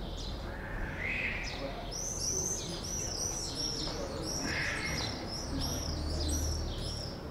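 Small birds chirping, a rapid series of short high notes starting about two seconds in, over a low steady rumble.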